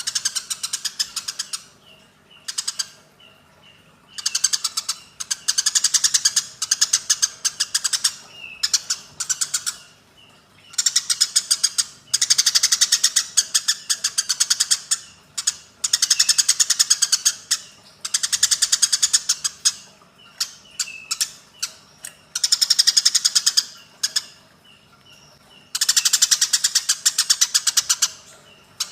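Eurasian tree sparrows in an agitated fighting chatter: bursts of rapid, harsh notes lasting a second or two each, separated by short pauses, with fainter single chirps in between.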